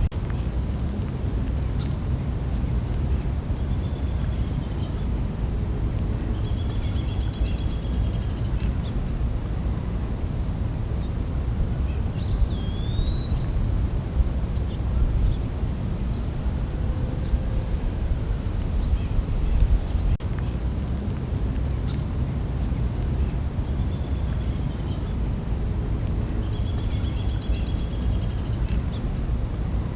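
Night-time insect chorus: a steady high-pitched drone with a cricket chirping at about four pulses a second. A few short trills come and go, and there is one brief whistle about twelve seconds in, all over a low rumble.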